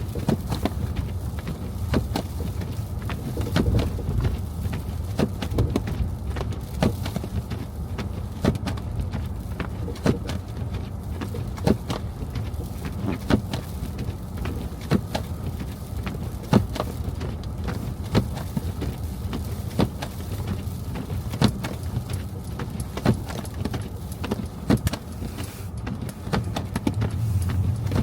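Car driving on a snowy city street: a steady low rumble of engine and tyres, with frequent irregular sharp clicks and knocks over it.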